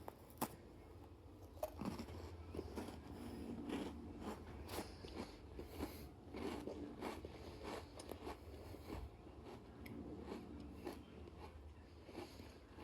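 A person biting into and chewing a crisp chocolate shortbread cookie (Kinder Kinderini), a long run of irregular crunches close to the microphone.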